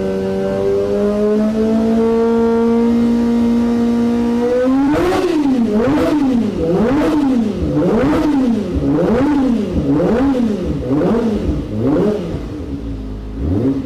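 Kawasaki Ninja ZX-25R's 250 cc inline-four engine revving through an aftermarket exhaust, between about 8,000 and 10,000 rpm. It holds a steady high note, creeping slightly higher, for about five seconds, then is blipped up and down about once a second, eight times, before easing off near the end.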